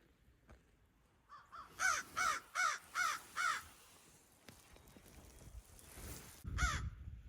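A crow cawing: a run of harsh caws about two or three a second, two faint ones then five loud ones, and one more caw near the end. A faint rustling builds up under the last call.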